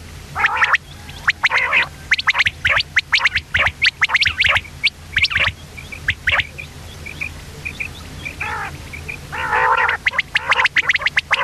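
Common quail calling: a rapid string of short, sharp, high chirps, broken by several brief harsh rasping bursts, over a low steady hum.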